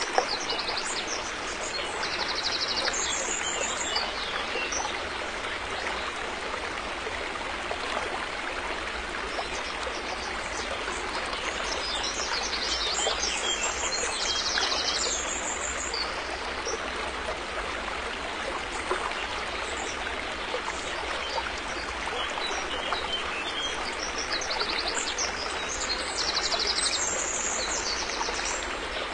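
River water flowing steadily, a continuous even rushing and trickling. Short high bird chirps come over it three times: about two seconds in, around the middle, and near the end.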